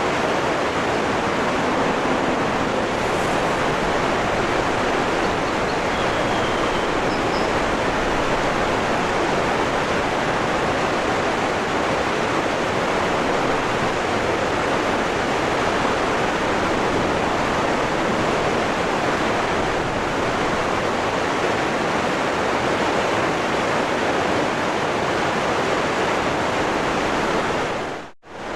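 Waterfall rushing: a steady, even roar of falling water. It briefly drops out for a moment near the end.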